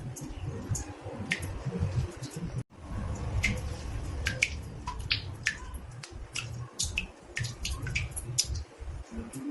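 Water drops falling irregularly into a bathtub, each a short, sharp plink, over a low steady rumble.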